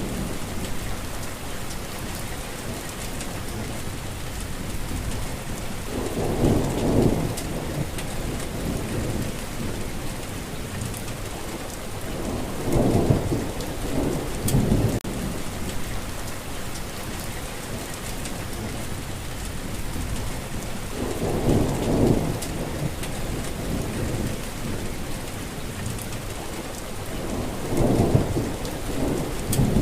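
Steady rain hiss with rolls of thunder rumbling low four times, each swelling for a second or two.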